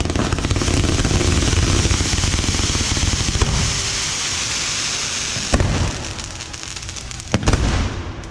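Barrage of bottle rockets from a beehive fireworks rack: a dense, continuous hissing crackle of many rockets launching and popping, easing after about five seconds, with a few sharp bangs near the end.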